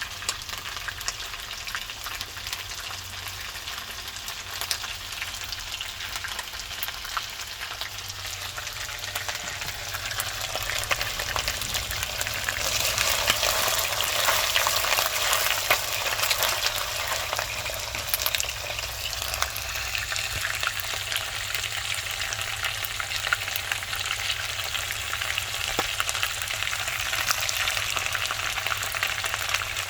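Food frying in hot oil in a karahi, sizzling steadily with scattered clicks of stirring against the pan; the sizzle grows louder about twelve seconds in.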